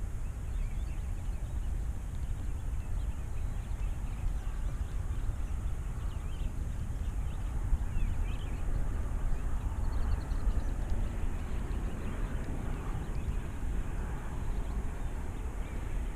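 Wind buffeting the microphone in a steady, unsteady low rumble, with a few faint bird chirps above it.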